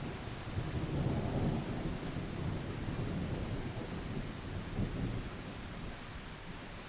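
Steady rain with a low rumble of distant thunder that swells about a second in and fades away near the end.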